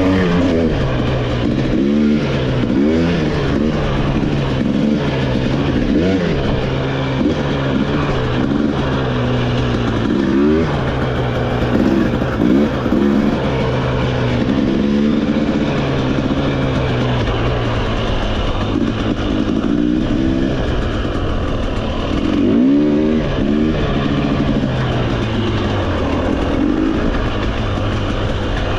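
Trail motorcycle engine under way, the throttle opening and closing over and over so the engine note rises and falls repeatedly.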